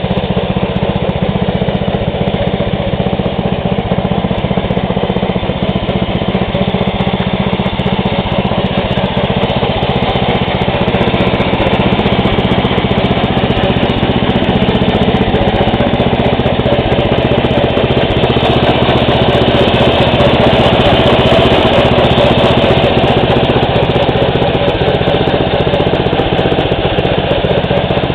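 Briggs & Stratton I/C 12.5 hp single-cylinder gas engine on a lawn tractor running steadily, a little louder through the middle.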